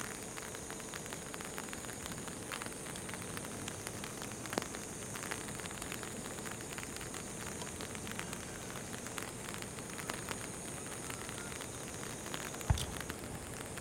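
Rain pattering on an umbrella held over the microphone: a steady hiss full of small drop ticks. One dull thump comes near the end.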